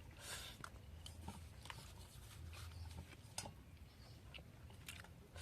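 Faint eating sounds: chewing with scattered small clicks and smacks.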